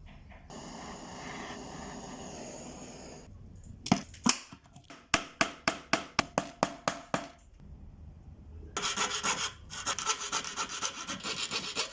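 Copper being worked by hand: a steady rubbing, then a run of sharp strokes about four a second, then fast rasping strokes of a file on the copper near the end.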